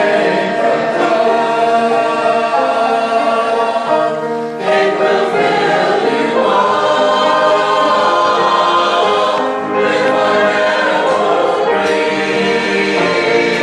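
A choir singing a sacred cantata piece with accompaniment, in sustained phrases with brief breaths between them.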